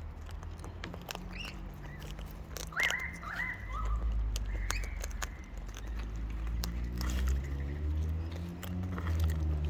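Wild birds pecking and cracking seed and nuts, with scattered sharp beak clicks and taps. A bird gives a short call of a few stepped, falling notes about three seconds in, over a low rumble.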